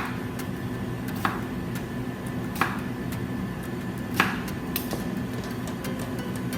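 Kitchen knife cutting onion on a cutting board: four separate sharp cuts, a second or more apart.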